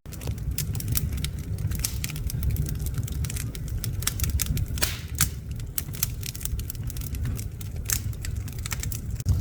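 Wood logs burning in a fireplace: rapid, irregular crackles and pops over a low, steady rumble of the fire.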